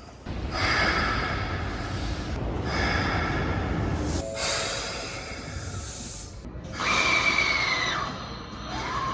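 Keikyu 1500 series train's air brakes releasing four times in a row, each a loud hiss of exhausting air that starts sharply. Near the end a whistling tone falls in pitch.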